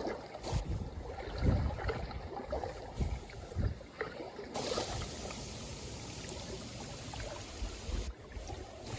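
Small wind-driven waves lapping and splashing at a lake shore, with gusts of strong wind buffeting the microphone.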